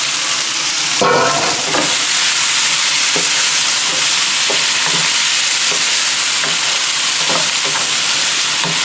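Shrimp frying on high heat in a nonstick frying pan with onions, ginger and bell peppers: a steady loud sizzle, with a louder clatter about a second in and the scrapes and taps of a wooden spatula stirring.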